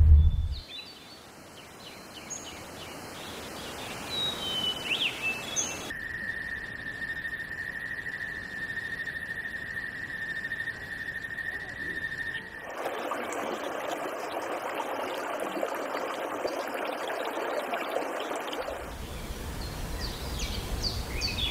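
Outdoor nature ambience with scattered bird chirps. In the middle a steady high tone holds for about six seconds, followed by about six seconds of even hissing noise, and more bird chirps come near the end.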